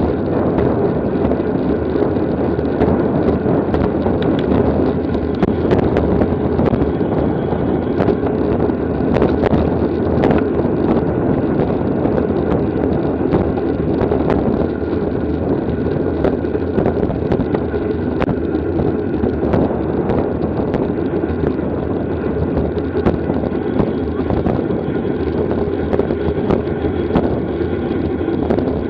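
Steady wind rushing over a camera microphone carried on a bicycle at racing speed, with a few faint clicks.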